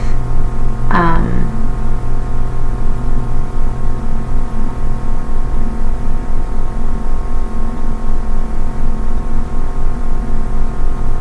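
A steady low hum with several sustained tones above it and a fast, even pulsing in level. A short spoken word about a second in.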